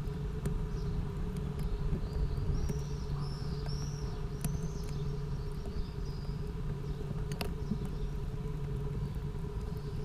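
A steady low mechanical hum, with a run of short high chirping bird calls about two to five seconds in and a few faint clicks.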